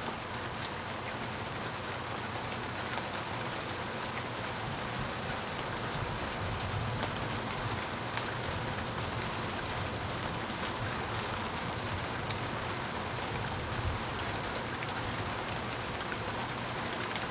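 Steady rain falling during a thunderstorm: an even hiss with scattered drop taps.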